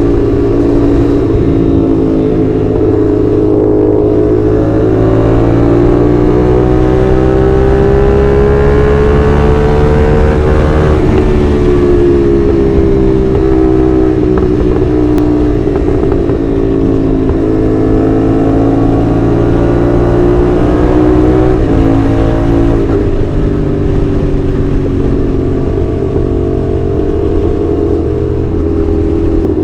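CFMoto 450SR's 270-degree-crank parallel-twin engine running under way. Its pitch rises and falls slowly over several seconds as the revs climb and ease off.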